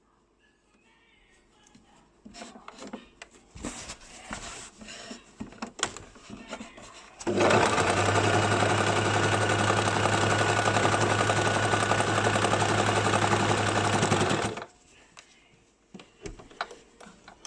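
Basic electric sewing machine stitching in one steady run of about seven seconds that stops abruptly, with clicks and fabric-handling knocks before and after it.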